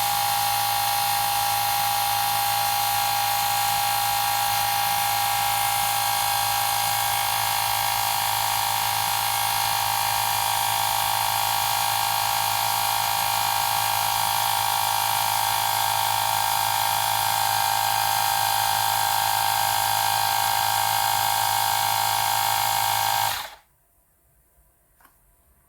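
Woowind AP2-P portable electric tyre inflator's compressor running steadily with a high whine, then cutting off suddenly near the end.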